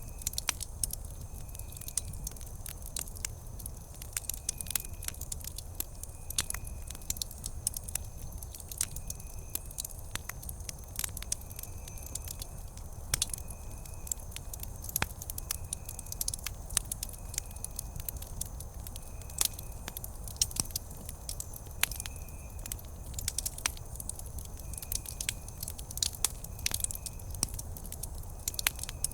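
Wood campfire crackling and popping, with irregular sharp snaps over a steady low rumble of the burning fire. A faint high chirp repeats about once a second throughout.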